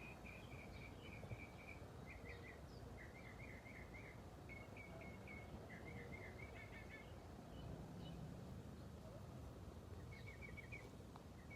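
A bird singing faintly in short phrases of quick repeated notes, one phrase after another over the first seven seconds and again near the end, over a steady low background rumble.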